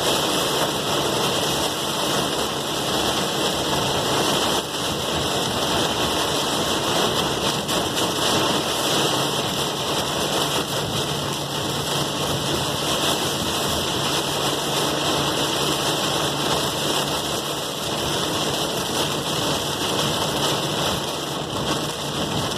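Steady rain falling, an even hiss without let-up, with a faint steady low hum underneath.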